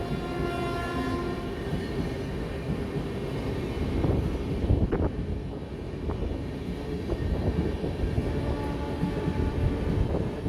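Train running: a steady low rumble with a few sharp knocks, and a steady multi-note tone that fades out about a second in.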